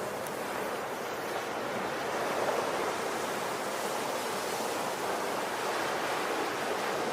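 Ocean waves washing onto a shore, a steady rushing surf that swells and eases gently.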